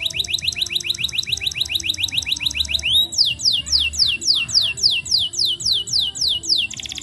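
Domestic canary singing a long roll: a fast run of rising whistled notes repeated many times a second, then a slower string of falling notes about four a second, switching to a very fast trill near the end.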